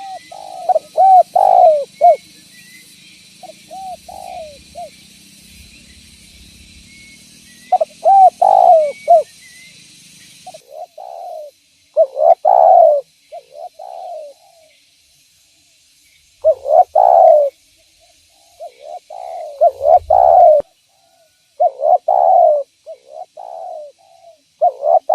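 Spotted dove (derkuku/tekukur) cooing: a loud, repeated phrase of several notes, given about every two to four seconds, the call used to lure wild doves. A faint steady hiss behind it stops about ten seconds in.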